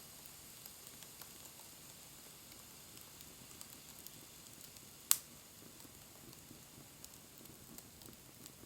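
Wood fire burning with a faint hiss and scattered small crackles, and one sharp pop about five seconds in.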